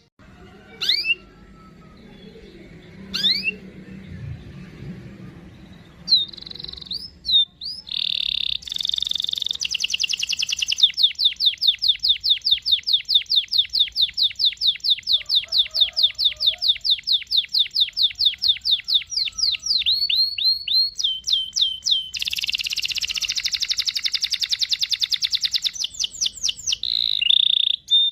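Domestic canary singing. A few separate rising whistled notes lead into a continuous varied song, including a long, even trill of about five notes a second lasting some ten seconds and a dense, buzzy roll near the end.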